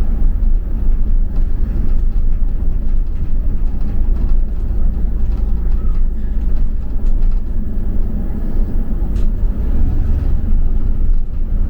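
Double-decker bus running, heard from inside: a steady low rumble of engine and road noise with faint rattles.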